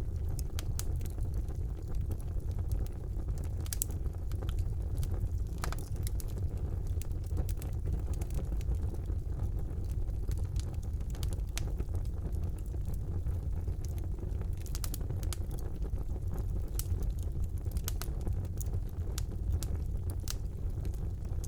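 Wood fire burning in a fireplace: a steady low rush of the flames with scattered sharp crackles and pops.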